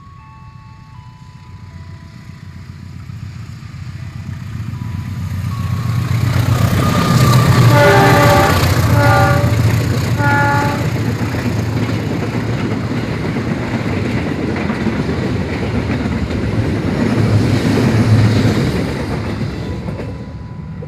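A train running through the station at speed without stopping. Its horn sounds three short blasts as it draws close, then the long rumble and rail clatter of the passing carriages swells and dies away near the end.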